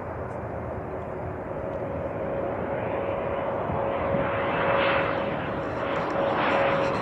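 Jet airliner engines approaching, a rushing roar that grows steadily louder with a steady whine running through it.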